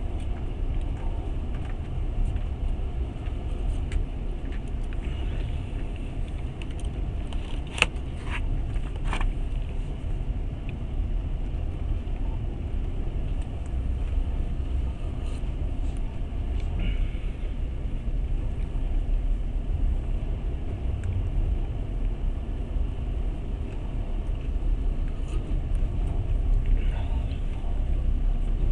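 Passenger train running: a steady low rumble from the moving carriage, with a couple of sharp clicks about eight and nine seconds in.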